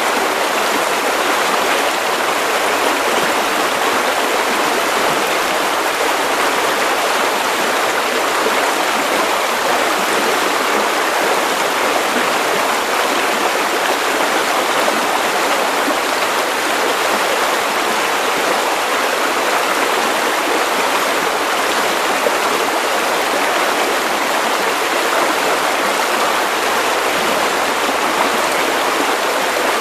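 Steady white noise: an even, unchanging hiss, strongest in the middle and upper range with little bass.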